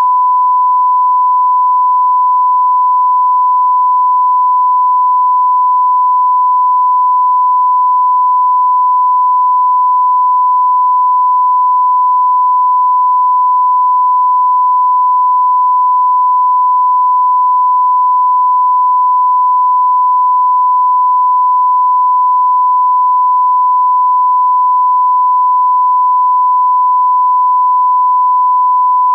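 Steady 1 kHz line-up test tone, the reference tone that runs with colour bars at the head of a video master, held unbroken at one pitch.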